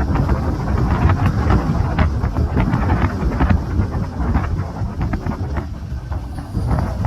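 Strong wind blasting across the microphone: a heavy, gusting low rumble with many small crackles and taps through it.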